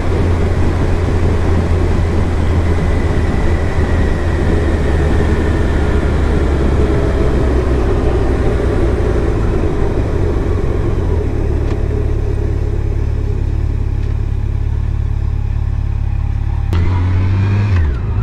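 Yamaha FJR1300 motorcycle's inline-four engine running at steady cruising speed, with wind rush over the helmet-mounted camera. Near the end the sound changes suddenly and a short falling pitch leads into a new steady engine note.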